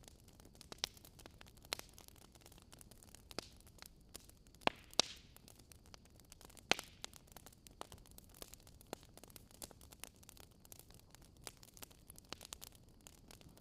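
Wood campfire crackling: irregular sharp pops and snaps over a faint low hiss, with a few louder snaps around the middle.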